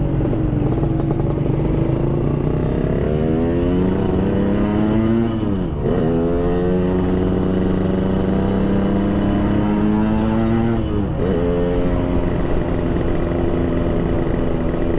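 Yamaha RX-King two-stroke single-cylinder motorcycle engine with an aftermarket PDK exhaust, ridden under way. It climbs in pitch, drops briefly and recovers about six and eleven seconds in as it shifts gear, and holds a steady note in between.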